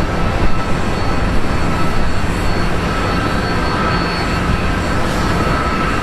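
Jet airliner engines running steadily at taxi power: a broad, even rumble with a thin, steady high whine on top.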